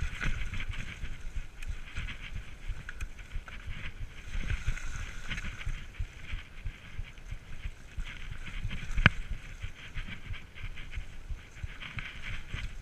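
Mountain bike rolling over a rough trail: a steady rattle and rumble of bumps, with wind on the microphone and one sharp knock about nine seconds in.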